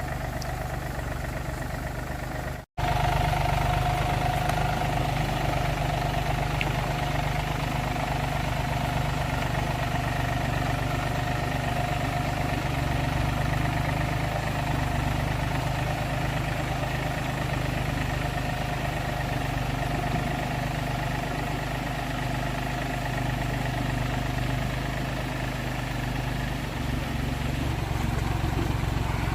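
A motor or engine running steadily with a constant hum. The sound cuts out completely for an instant about three seconds in, then carries on.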